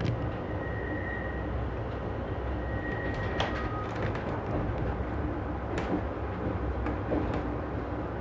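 Passenger train running, heard from inside the car: a steady low rumble of wheels on rail with scattered clicks and creaks. A faint high squeal comes and goes twice in the first half.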